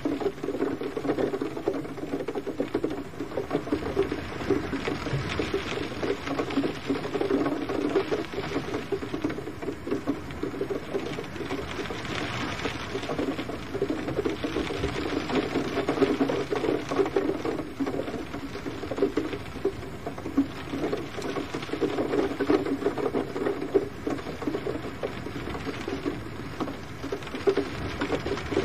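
Gentle rain falling steadily: a dense patter of many small drops.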